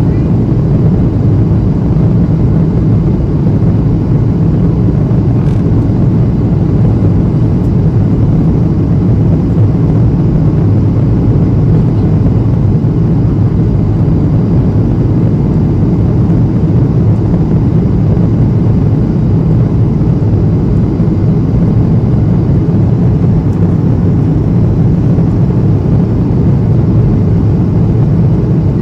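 Steady low rumble inside the cabin of a Boeing 737-800 in flight, the engine and airflow noise of its CFM56 turbofans holding even with no change in pitch or level.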